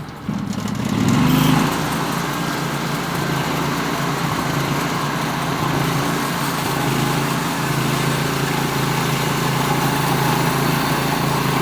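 Band sawmill's 18 hp Vanguard V-twin engine throttling up about a third of a second in, then running steadily at speed.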